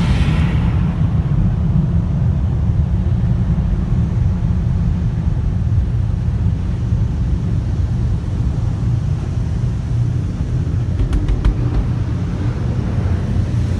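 Steady low rumble of a car rolling along, with a higher rushing noise that fades out about a second in.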